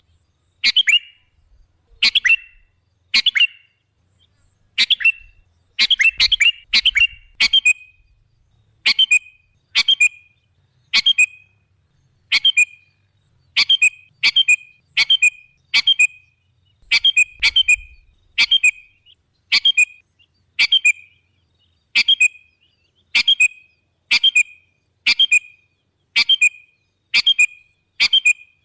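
Sooty-headed bulbul (kutilang) giving short, sharp calls over and over, about one a second and now and then two or three in quick succession. This is a lure call used to draw other birds in.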